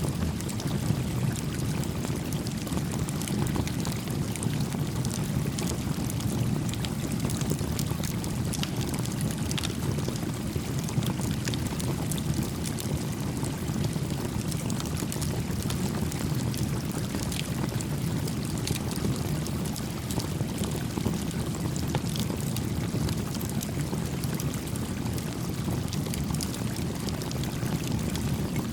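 A small campfire crackling with scattered sharp pops over the steady low rush of a gently flowing creek.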